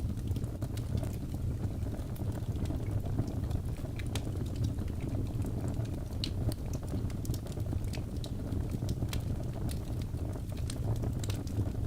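Birch logs burning in a fireplace: a steady low rumble of flame with frequent small, irregular crackles and pops.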